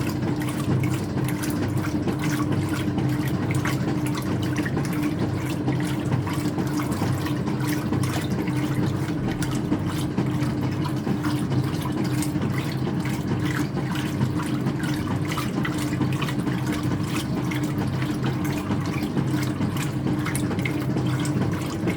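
Speed Queen top-loading washer in its rinse: water running and splashing in the tub over a steady low hum.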